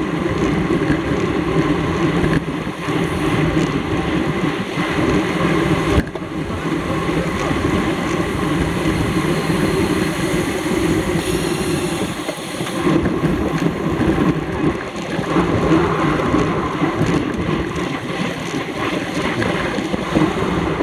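Steady wind noise on the microphone of a camera riding on a racing bicycle at speed, with a sudden change about six seconds in.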